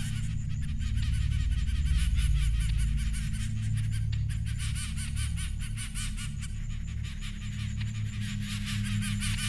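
Low, sustained musical drone with many small birds chirping rapidly over it: recorded Darwin's finch song as broadcast on the radio programme.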